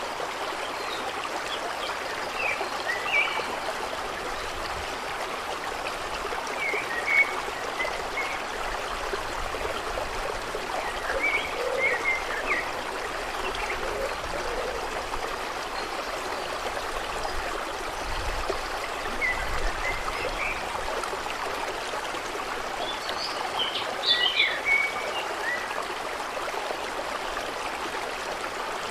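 Steady flowing, trickling water, with short bird chirps every few seconds.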